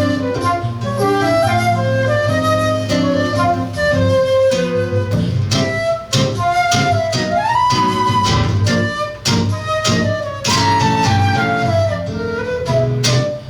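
Flute and seven-string guitar playing a Latin-flavoured piece together over a low bass line. The flute carries the melody and slides up in pitch about halfway through.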